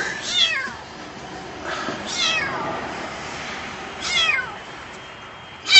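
Small kitten meowing from under a car where it is trapped: four high calls about two seconds apart, each falling in pitch.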